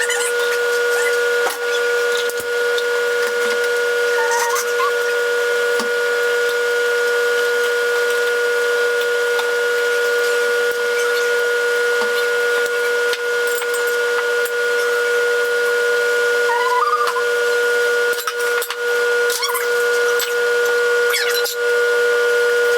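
Microwave oven running, a steady unbroken hum with a high-pitched overtone, as it heats a vinegar-and-water steam cleaner.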